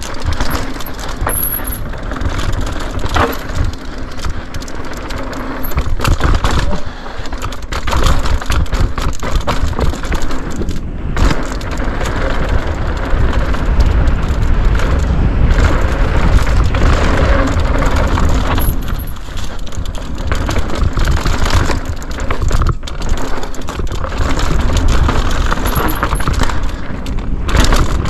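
Mountain bike riding fast down a dirt trail: tyres rolling over rough ground, with steady chain slap and frame rattle over a heavy wind rumble on the camera. The noise drops out briefly twice, about 11 and 23 seconds in.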